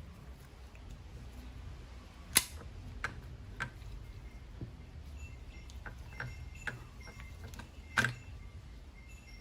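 A few sharp clicks and knocks of small parts being handled during work on a rotary hammer drill, the loudest about two and a half seconds in and again near the end, over a low steady hum.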